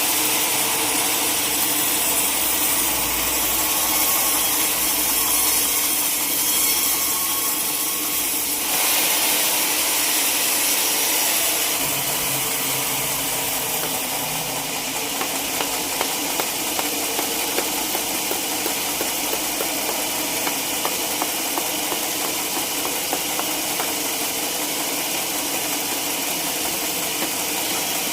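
Sawmill machinery running steadily with a hiss, its tone shifting about nine and again about twelve seconds in, and light ticks through the second half.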